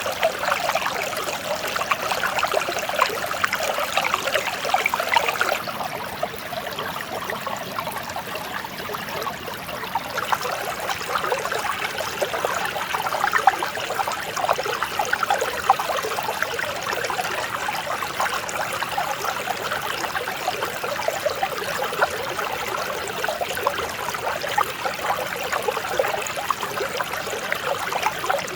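Mountain stream flowing over rocks, a steady babbling and trickling of water.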